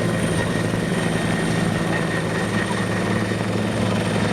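Bell 412EP twin-engine helicopter running steadily: a constant low rotor and engine drone with a thin, steady high whine over it.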